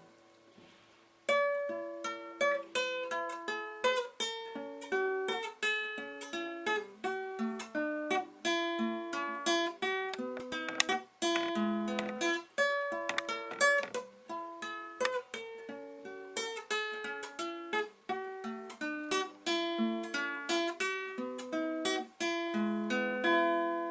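Guitar picked note by note in a flowing instrumental passage, starting about a second in after a brief pause.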